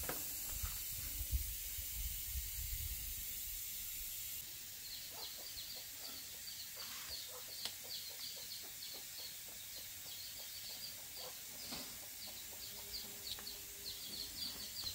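Faint outdoor background of birds chirping, rapid short high notes repeating from about five seconds in. A low wind rumble is heard in the first few seconds.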